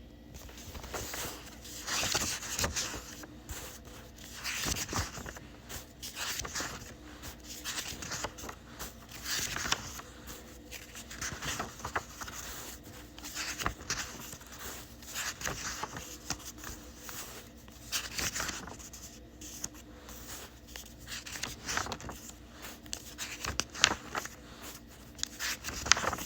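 Someone rummaging and handling things close to the microphone: irregular rustling, crinkling and scraping with small clicks.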